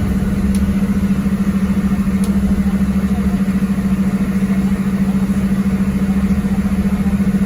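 MAZ-206 city bus's diesel engine idling steadily, a constant low hum with a fast, even throb.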